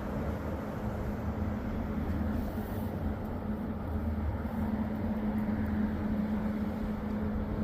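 Flooded river water rushing past, a steady noise with a low rumble underneath.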